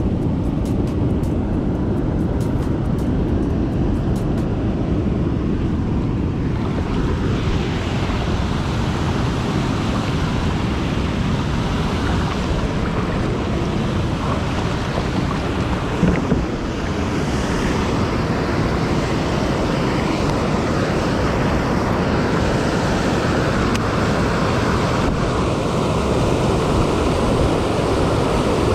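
Steady rush of water spilling over a low-water dam, mixed with wind buffeting the microphone, with a brief bump about sixteen seconds in.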